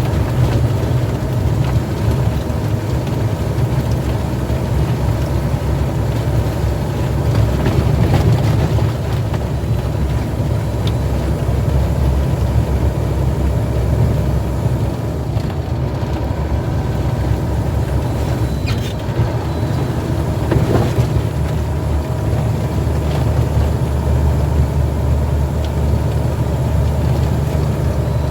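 Heavy truck on the road: a steady low engine drone with road noise.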